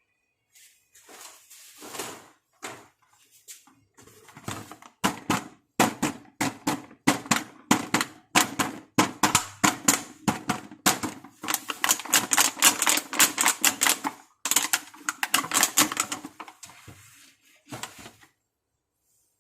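Rapid, irregular clicking and tapping from hard toy makeup pieces being handled during an unboxing. The clicks are sparse at first, come thick and fast from about five seconds in, and thin out near the end.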